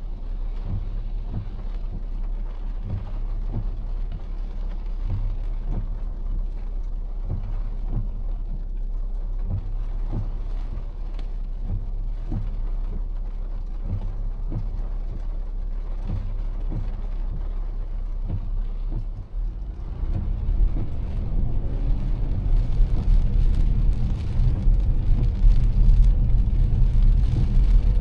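A car driving in heavy rain, heard from the dashcam: a steady low rumble of engine and tyres, with soft regular knocks about once a second. About two-thirds of the way in, the rumble grows louder as the car gathers speed.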